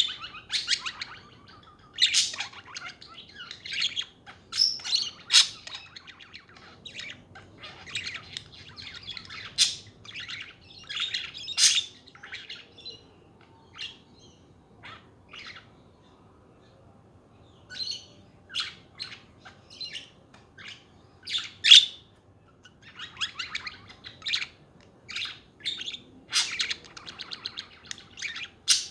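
Budgerigars chattering: a run of quick high chirps and warbles that thins out to a few separate chirps midway, then picks up again.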